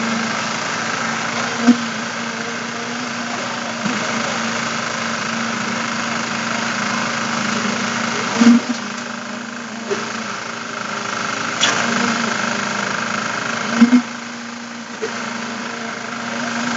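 A machine engine running steadily during a concrete slab pour, with a steady hum. It is broken by a few short, loud knocks, about 2, 8½ and 14 seconds in.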